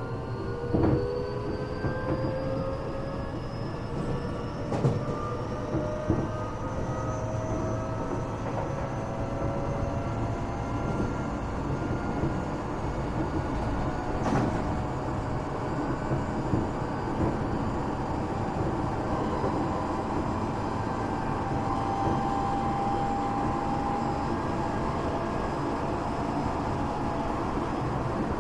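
Tokyo Metro 8000 series electric train heard on board: the traction motors whine, their pitch rising slowly as the train gathers speed, over steady running rumble with a few sharp clicks from the wheels and track.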